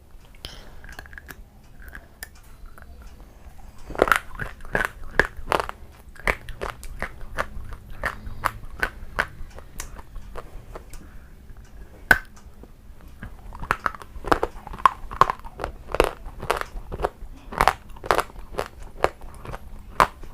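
Close-up biting and chewing of something crunchy. Quiet at first, then crisp crackling crunches from about four seconds in, with one loud single crack around the middle and a run of crunchy chewing in the second half.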